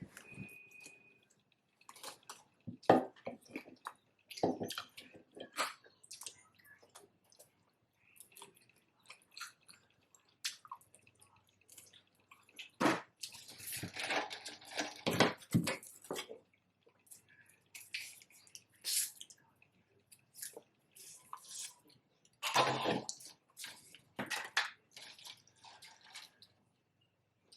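Close-up mouth sounds of a person eating a fried chicken sandwich: wet chewing, smacking and small clicks, coming in scattered bursts with a busier stretch around the middle.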